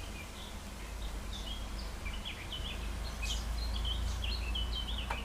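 Small songbirds chirping and trilling in quick short phrases, busier in the second half, over a low steady rumble.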